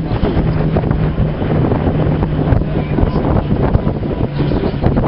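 Strong wind buffeting the microphone, a loud, rough rumble, with a steady low hum underneath that drops out briefly a few times.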